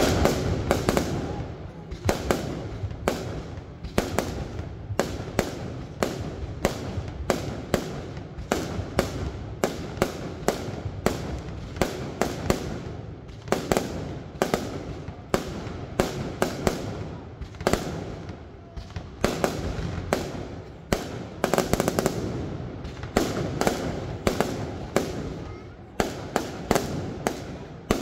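Aerial fireworks shells bursting in quick succession: a steady run of sharp cracks, often two or three a second, over a low rumble of booms.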